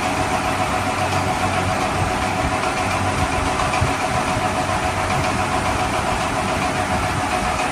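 Steady engine-like running noise with a faint steady tone through it.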